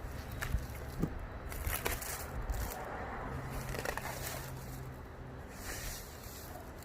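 Packaging being handled during an unboxing: irregular rustling and crinkling, with a few sharp knocks and clicks.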